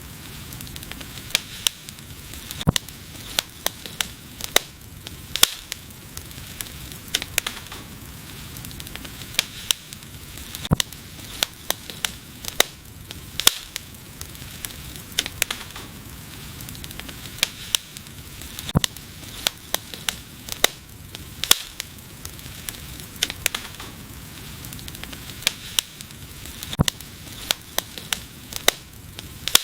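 Wood fire crackling: irregular sharp pops and snaps, several a second at times, over a steady hiss of burning.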